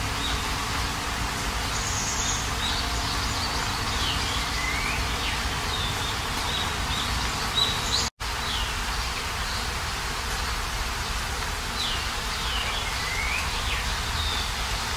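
Steady rain falling, with small birds chirping now and then through it. The sound cuts out for an instant about eight seconds in.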